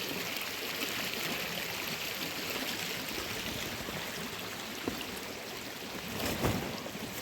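Steady flowing water, like a stream, with a faint click and then a soft thump near the end.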